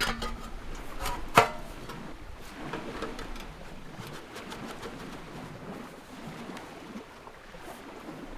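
A few sharp knocks, the loudest about one and a half seconds in, then faint scattered clicks over a low background of wind noise.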